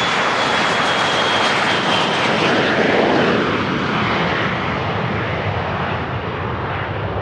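Business jet's turbofan engines passing along the runway: a rushing jet noise with a thin high whine that drops slightly in pitch. It is loudest about three seconds in, then fades as the jet moves away.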